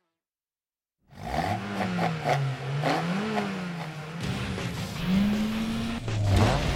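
Car engine revving up and down, its pitch rising and falling again and again, starting about a second in after silence.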